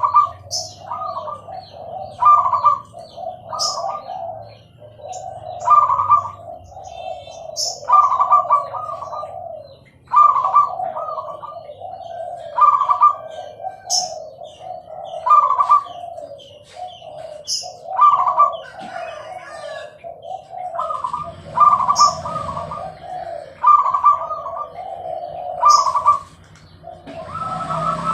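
Zebra doves (perkutut) cooing over and over, a rapid stuttering coo phrase every second or two, with sharp high notes at the start of some phrases. A short hiss comes near the end.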